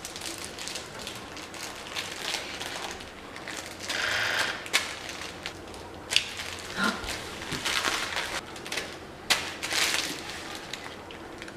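Jenga Quake blocks clicking, scraping and rattling as they are tapped, pushed out of the tower and stacked, with a few sharp knocks.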